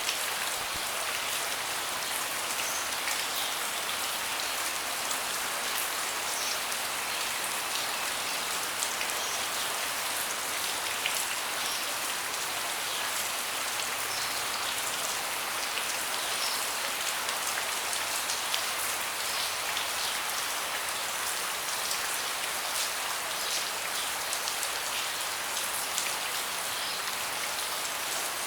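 Steady rain falling on a deck: a continuous hiss with many small individual drop hits scattered through it.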